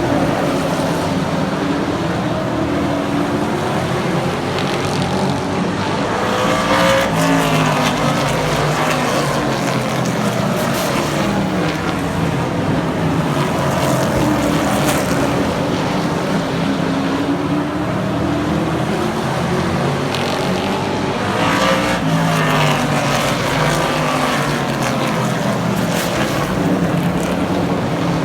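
Super trucks racing around a short oval track, several engines running hard at once. The sound swells and falls as the field passes, loudest about a quarter of the way in and again about three quarters of the way in.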